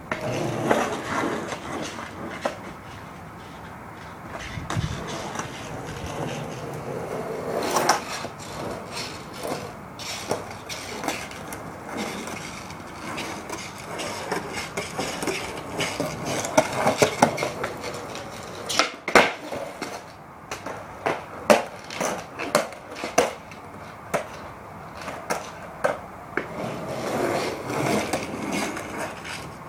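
Skateboard rolling, the wheels rumbling steadily, broken by many sharp clacks and knocks of the board, thickest past the middle.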